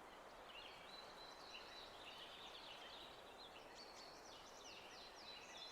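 Faint birdsong: many short chirps and quick falling notes over a soft, steady hiss of outdoor ambience, growing busier in the second half.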